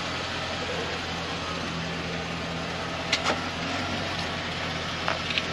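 Motor vehicle engine running steadily with a low, even hum, with a few short clicks about three seconds in and again near the end.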